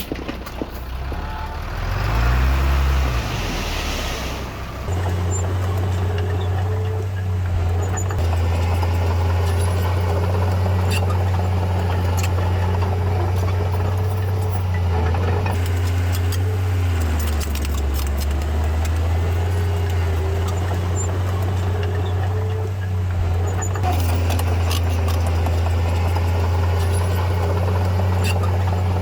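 Heavy construction machinery's diesel engine running steadily at a deep drone, with a brief rev and fall about two seconds in and a short dip in pitch about halfway through. Scattered sharp clicks sound over it.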